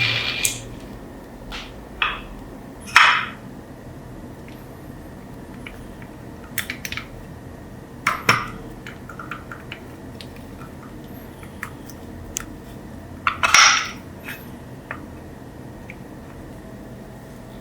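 Intermittent clinks and short scraping sounds of metal parts and tools being handled, a handful of separate bursts several seconds apart over a low steady hum.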